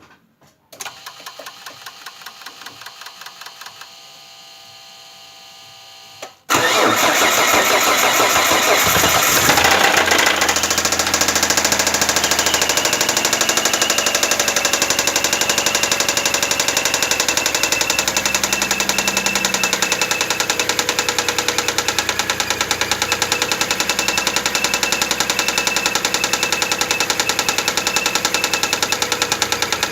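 A quieter pulsing and then a steady hum, followed about six seconds in by the cold start of a Mitsubishi 6G74 3.5-litre V6. It catches suddenly and keeps running loudly with a fast, even knock from the engine.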